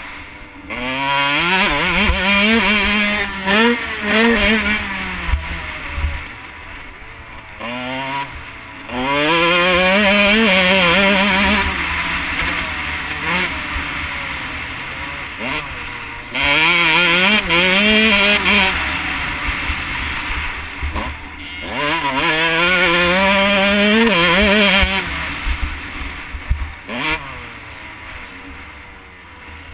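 Husqvarna CR125/144 two-stroke motocross bike engine under hard throttle, revving up and shifting up through the gears, then falling away as the throttle is closed, over and over. About four long loud pulls, each climbing in pitch in steps between shifts.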